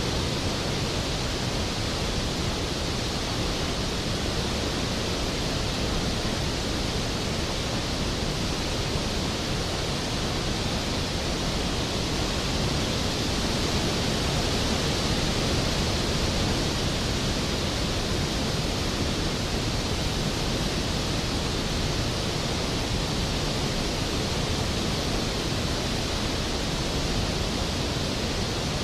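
Skógafoss waterfall: a steady, even rush of falling water, heavy at the low end and unchanging throughout.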